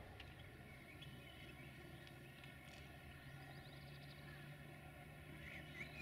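Near-silent outdoor ambience: a few scattered bird chirps over a faint, steady low drone that firms up about halfway through.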